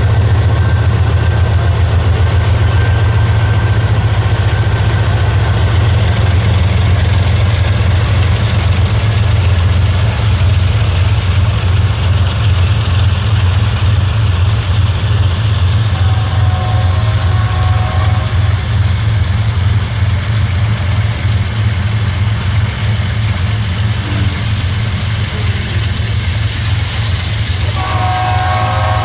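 Canadian Pacific GE diesel-electric locomotives pass close, their engines working with a deep steady rumble, followed by the rolling noise of covered hopper cars. A train horn blows several tones at once near the end.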